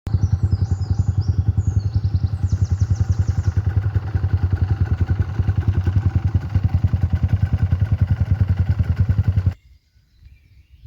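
Enduro motorcycle engine idling with an even low pulsing of about nine beats a second, then switched off about nine and a half seconds in, so the sound stops suddenly.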